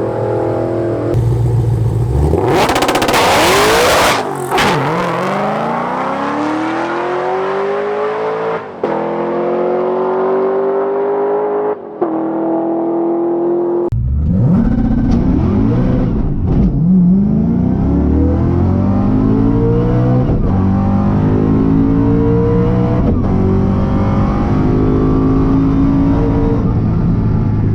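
Drag racing car engines at full throttle, revving up in repeated rising sweeps as they pull through the gears, with a loud burst of hissing noise a few seconds in. Sharp breaks near the middle suggest cut-together passes.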